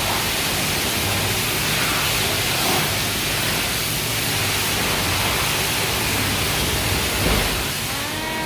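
Steady rushing hiss of high-pressure water spray at a car wash.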